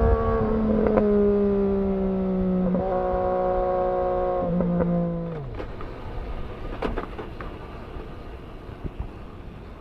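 Motorcycle engine running at steady revs, its pitch stepping up and down a few times, then winding down and fading about five seconds in. It leaves road and wind noise with scattered clicks.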